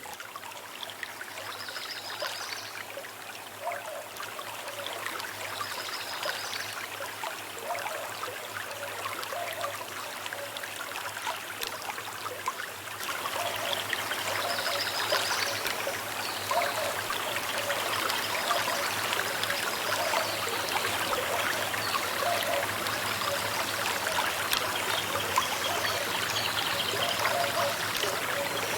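Small river running and trickling steadily, with short calls from birds now and then. The water turns suddenly louder about halfway through.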